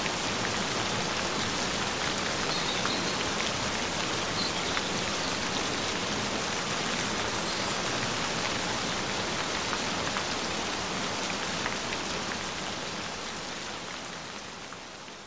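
Steady gentle rain, an even patter of many drops, slowly fading out over the last few seconds.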